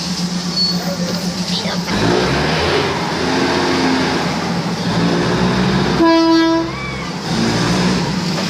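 Diesel passenger railcar pulling out of the station: a steady low hum, then heavier running rumble from about two seconds in as the train gets under way. One short horn blast sounds about six seconds in and is the loudest sound.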